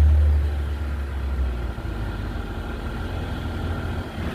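Car engine and exhaust rumbling deeply, loudest at the start after a rev and settling after about a second and a half into a steady low drone.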